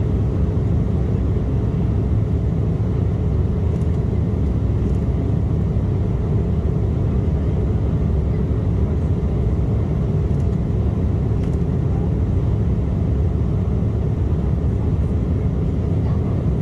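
Cabin noise of an Embraer E175 jet airliner: a steady, loud rumble of its twin turbofan engines and the airflow, heard from inside the cabin.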